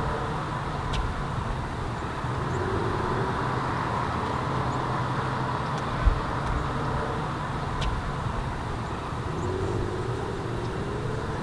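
Steady rumble and hum of a car driving, with a single low thump about six seconds in.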